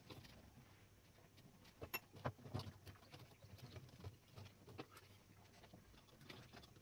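Faint, scattered clicks and light taps of small metal parts being handled on a manual typewriter under repair, with a small cluster of knocks about two seconds in.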